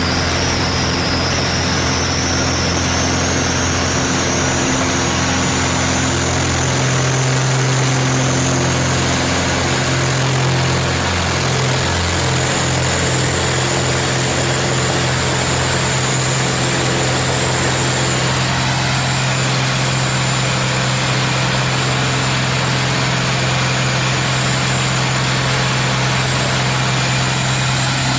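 Piston engine and propeller of a Zlin Z-226MS droning steadily in flight, heard from inside the cockpit, with a thin high whine that rises a little over the first several seconds and then holds steady.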